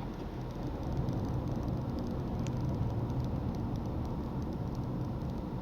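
Honda Freed's 1.5-litre four-cylinder petrol engine running steadily while the car drives along, with road rumble. It gets a little louder about a second in and then holds.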